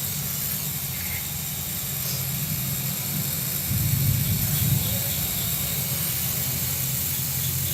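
Gas welding torch flame burning with a steady hiss over a low rumble, briefly swelling about four seconds in, while heating the knife-gouged spot of a refrigerator for patching with aluminium.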